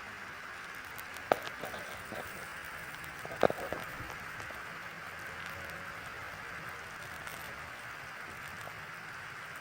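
Chicken skewers sizzling over hot charcoal embers, a steady fine hiss with two sharp crackling pops, about a second in and again about three and a half seconds in.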